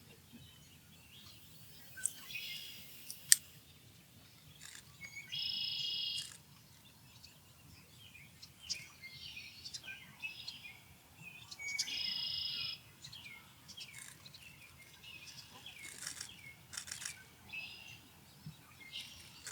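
Osprey calls: short high chirps throughout, with two longer, harsher calls about five and twelve seconds in. A single sharp click a little after three seconds is the loudest moment.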